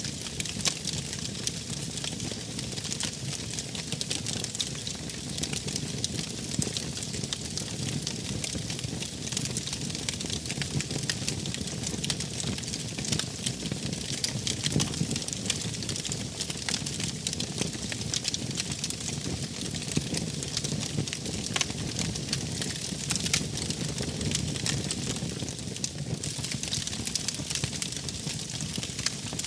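Wood fire crackling steadily, with many small sharp pops over a low, even rumble of flames.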